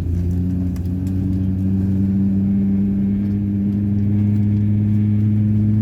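A low mechanical hum inside an Airbus A350-900's cabin, switching on abruptly just before and then creeping slowly upward in pitch as it spools up.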